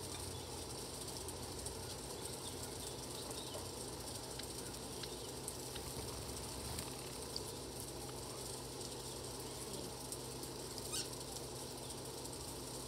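Steady outdoor background hiss and low hum, with a few faint, very short high chirps from small birds at a feeder; one sharper, louder chirp comes near the end.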